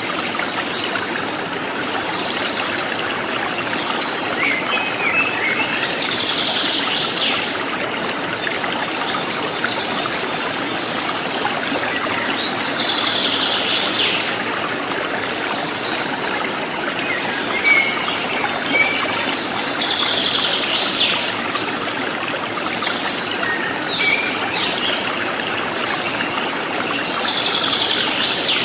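Stream water trickling and splashing steadily, with a forest bird giving a call of about a second roughly every seven seconds, four times, and a few short chirps in between.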